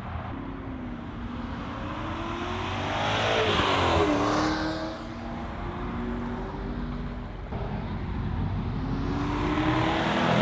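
A muscle car engine drives past: its note rises as it approaches and drops as it passes, loudest about four seconds in. Another car's engine comes up near the end.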